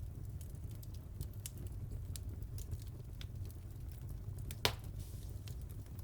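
Wood fire crackling in a fireplace: scattered small crackles over a steady low rumble, with one sharper, louder pop about two-thirds of the way through.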